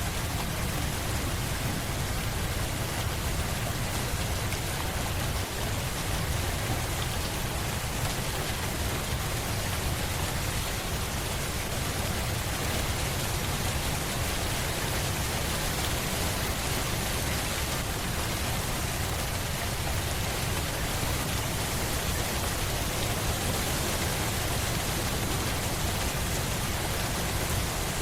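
Steady, even rain falling, a dense hiss of drops with a deep low rumble underneath and no distinct individual drops or thunder.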